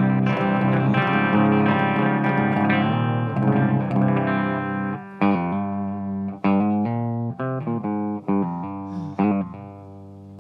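Electric guitar played with a clean amp tone, no overdrive engaged: sustained chords for about five seconds, then shorter picked chords with brief breaks between them, the last one ringing out and fading.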